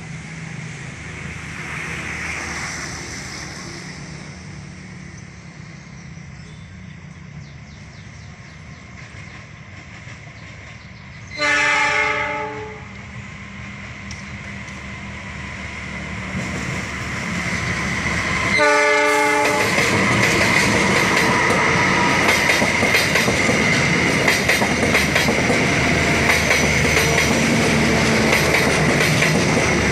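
Diesel-hauled KA Cikuray passenger train approaching, with a low engine hum at first. The driver sounds the horn twice, a blast of about a second near the middle and a shorter one about seven seconds later. The train then runs past loudly, its wheels clattering on the rails.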